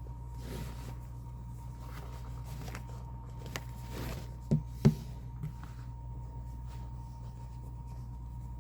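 Handling noise from rolling cross-stitch fabric: soft rustling, then two sharp knocks near the middle, the second the loudest, over a steady low hum.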